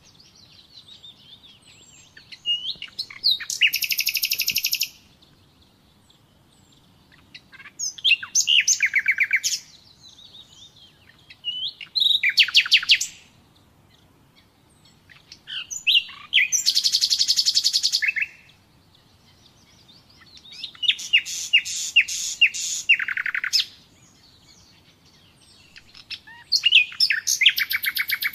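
Common nightingale singing: about six separate song phrases of rapid repeated notes and trills, each one to three seconds long, with pauses of two to three seconds between them.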